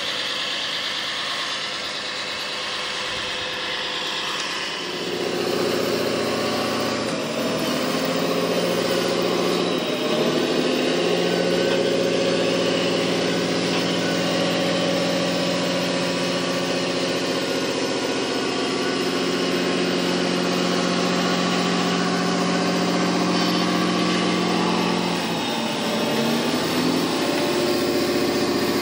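A vehicle engine running steadily. Its pitch dips and comes back up briefly a few times.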